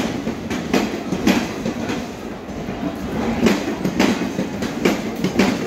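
Passenger train coaches rolling past as the train pulls in, the wheels clacking over the track in an uneven series of knocks over a steady rumble.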